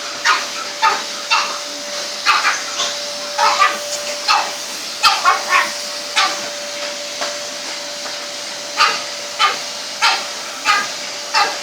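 Vacuum cleaner running with a steady hum while a pug and a French bulldog bark at it, short barks coming in quick runs, with a pause of about two seconds past the middle.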